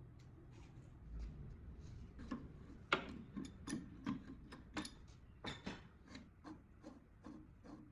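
An irregular series of sharp clicks and knocks, about two or three a second, from tools and parts being handled during work on the compressor head; the loudest knock comes about three seconds in.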